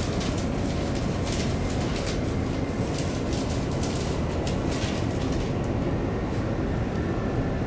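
Electric commuter train running between stations, heard from inside the carriage: a steady rumble of wheels on rail with scattered short clicks.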